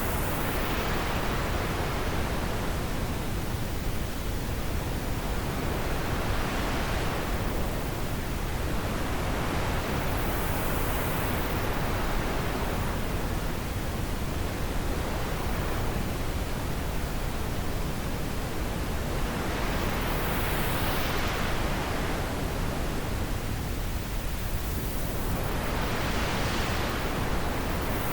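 Steady wind noise, a continuous hiss that swells and eases in slow gusts every few seconds.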